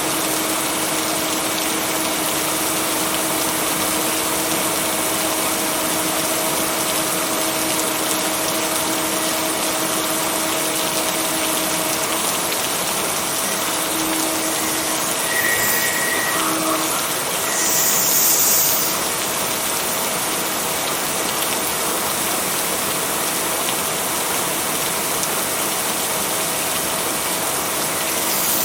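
Steady rain hiss with a low steady hum underneath, and a brief louder rush of hiss about two-thirds of the way through.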